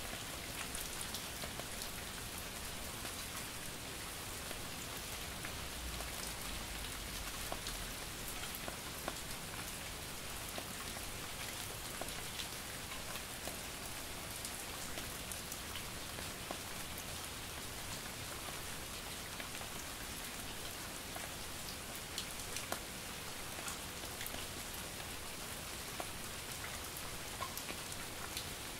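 Steady light rain and drizzle falling on a surface: an even hiss with many small scattered drip and patter ticks throughout.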